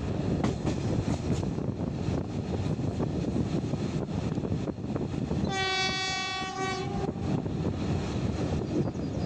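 Passenger train running on a non-electrified branch line, heard from a carriage window: steady wheel and rail rumble with the clack of wheels over rail joints. About five and a half seconds in, the diesel locomotive sounds one steady horn blast lasting about a second and a half.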